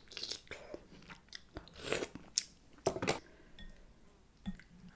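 Close-miked eating sounds of someone chewing seafood in sauce: irregular wet chewing and smacking with short sharp clicks, a few louder smacks around two and three seconds in.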